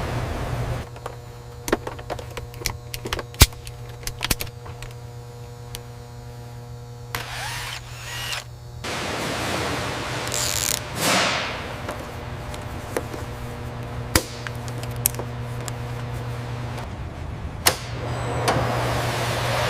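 Assembly-line tool and mechanism noise: scattered sharp clicks and knocks over a steady low hum. About halfway through comes a hiss whose pitch falls.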